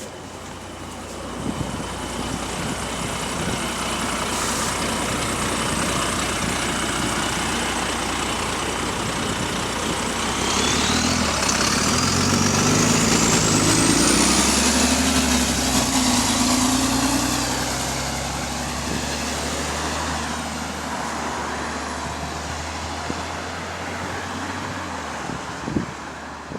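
Diesel bus engine, with an exhaust leak, pulling away under load. Near the middle a high whine rises steadily over a few seconds and the low engine note climbs with it. It is loudest there, then it eases back to a steady drone.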